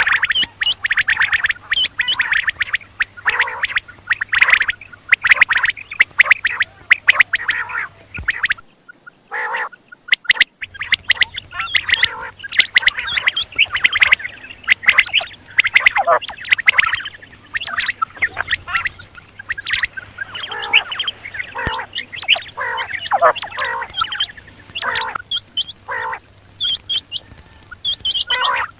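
Many quail calling at once, a dense run of short overlapping calls that drops out for a couple of seconds about nine seconds in and then carries on.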